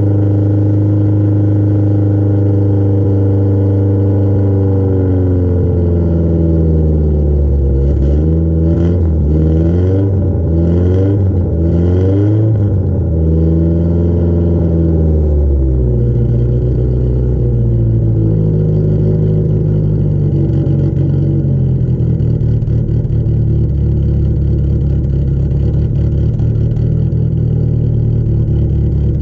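1973 Fiat Spider's 1608 cc twin-cam four-cylinder engine, breathing through a tubular header and turbo tube muffler, held at raised revs, then blipped several times in quick succession. Near the middle it drops back and settles to a steady idle for the rest.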